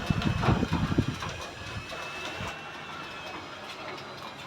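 Avanti garage door opener running and driving a sectional door along its tracks. A rattling rumble is loudest in the first second and a half, then settles to a steady run with a faint high whine.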